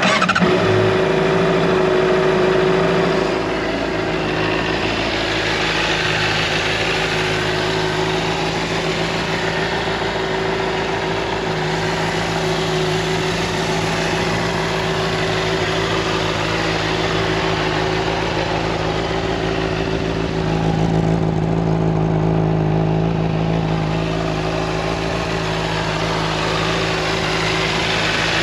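2018 Honda CBR600RR's inline-four engine catching and running a little higher for the first few seconds, then settling into a steady idle.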